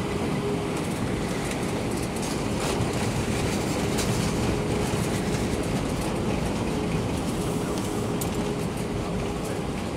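Cabin noise of an Airbus A319 rolling on the ground after landing: a steady hum from its IAE V2500 engines with one faint steady tone, over a rumble and light clatter of the wheels on the paved surface. It swells slightly a few seconds in.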